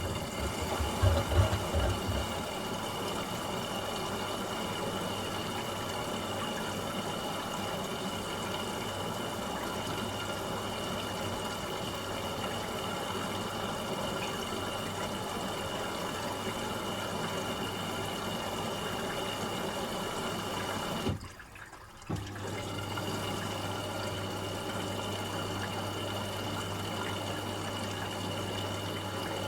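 Asko Quattro washing machine filling with water for its first rinse: a steady rush of water pouring into the drum, with a low hum. About 21 seconds in the flow cuts out for about a second, then starts again with a stronger hum.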